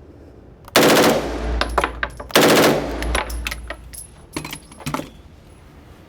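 Fully automatic 9mm gun firing two rapid bursts about a second and a half apart, followed by a few separate shots. The firing stops short of an empty magazine because the gun jams.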